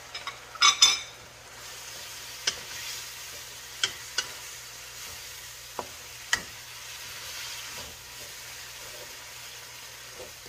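Ginger strips sizzling in oil in a hammered wok while a wooden spatula stirs them, with a loud clatter about a second in and several sharp knocks of the spatula against the wok.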